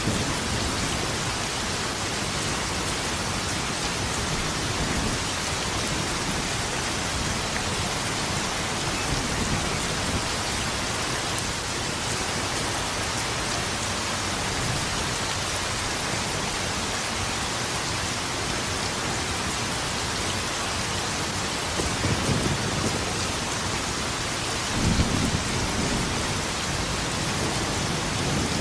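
Steady rain with low rolls of thunder. Two of the rolls swell near the end.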